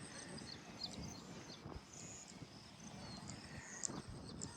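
Faint outdoor ambience: many short high chirps and a steady high whine over a low rumble, with a few scattered knocks.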